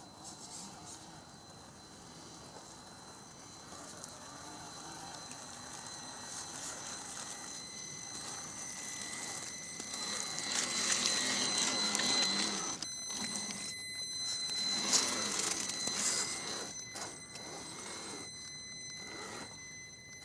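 Electric motor and drivetrain of a Vaterra Chevrolet Blazer K5 RC crawler whining at a steady high pitch while it drives. The whine gets louder in uneven surges about halfway through, then eases off.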